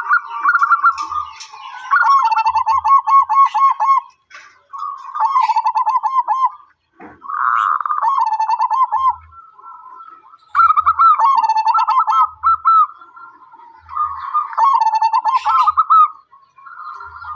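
Zebra doves (perkutut) cooing: a string of rapid staccato coos around one pitch, given in phrases of a second or two, repeated again and again with short pauses between them.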